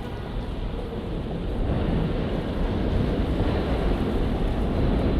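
Steady rumbling street noise with wind buffeting the microphone, slowly growing louder.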